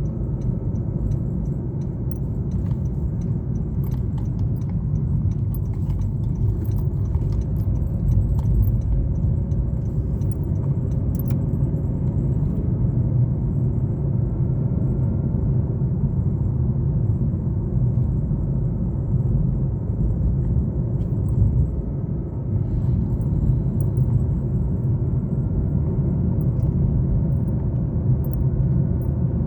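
Steady low rumble of a car's engine and tyres on the road, heard from inside the moving car, with light rattling clicks scattered through the first half.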